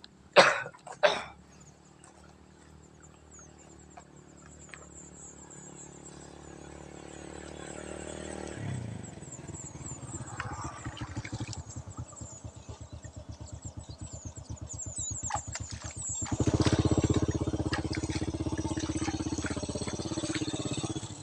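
Two sharp knocks right at the start, then a motorcycle engine drawing near and running close by with a rapid, even putter. It grows louder over several seconds and is loudest from about three-quarters of the way through.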